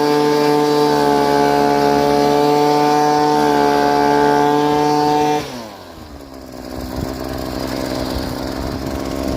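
A small petrol engine running at high revs with a steady note, then slowing down about five seconds in, its pitch falling to a lower, rougher running note that picks up in loudness again near the end.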